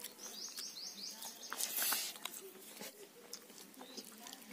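A small bird calls in a quick run of about six high, falling chirps lasting about a second. Just before halfway through comes a brief loud rustling hiss, followed by scattered small clicks.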